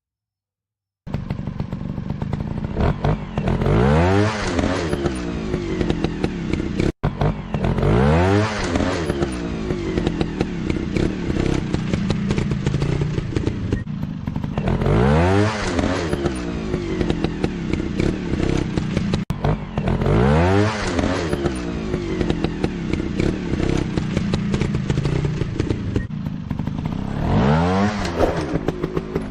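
Dirt-bike engine revving up and dropping back, again and again, with a swell about every five to seven seconds. It starts after about a second of silence and cuts out briefly twice.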